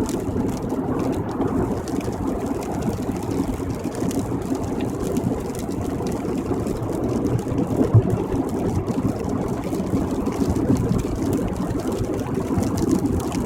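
Steady road noise heard inside a moving car's cabin at freeway speed, tyres running on rain-wet pavement with a low rumble underneath.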